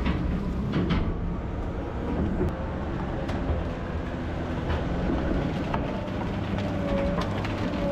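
Heavy diesel equipment running steadily with a low hum, with scattered knocks and clatter and a faint wavering whine near the end.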